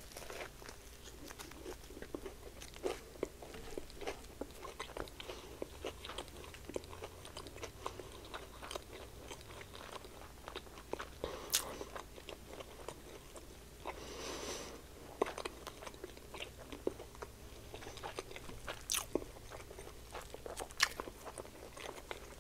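Biting into and chewing a fried chicken sandwich, the crispy breading crunching in irregular crackles, with a few sharper crunches standing out and a brief hiss partway through.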